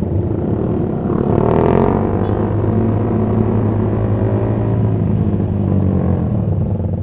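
Sport motorcycle engine running under way, rising in pitch as it accelerates about a second in, then holding a steady drone.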